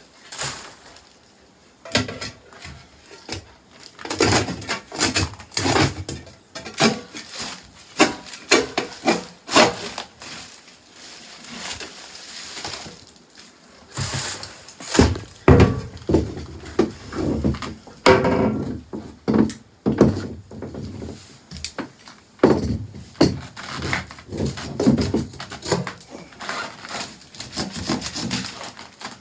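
Irregular knocks and scrapes of wood being handled and worked, with clusters of sharp hits and quieter gaps between them.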